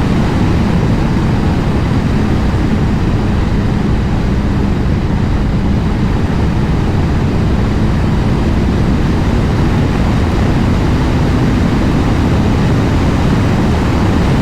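Suzuki GSX600F's inline four-cylinder engine running steadily at speed, its note held at one pitch, under heavy wind noise.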